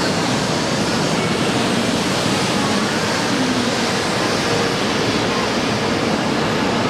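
Series 500 Shinkansen train moving along a station platform: a steady, even rushing noise.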